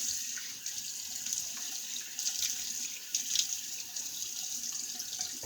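Bathroom tap running into a sink, the water splashing as it is used to wet the face before a shave. The flow cuts off at the very end.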